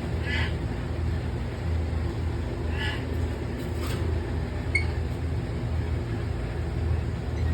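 Lory parrots giving a few short squawks, three or four in the first five seconds, over a steady low hum.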